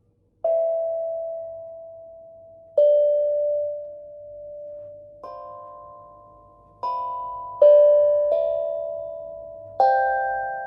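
A tuned instrument played one note at a time: seven notes of different pitches, each struck or plucked with a sharp attack, then ringing and fading slowly. The first comes about half a second in, and the notes come closer together toward the end.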